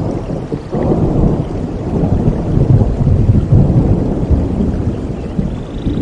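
Rolling thunder under steady rain: a deep rumble swells about a second in, peaks midway and slowly eases off.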